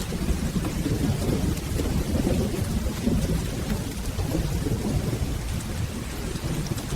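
Steady rain with a continuous low rumble of distant thunder.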